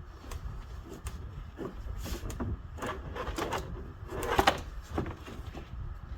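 Hand work on a golf cart's body: scattered clicks and knocks with scraping, and one louder, longer scrape about four seconds in.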